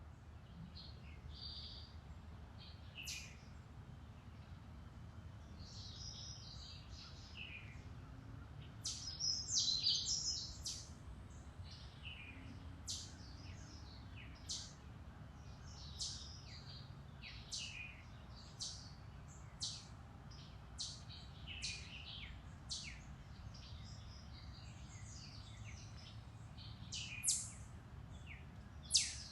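Several songbirds chirping and singing in woodland: short, sharp calls about once a second, with a louder burst of song around nine to ten seconds in, over a steady low rumble.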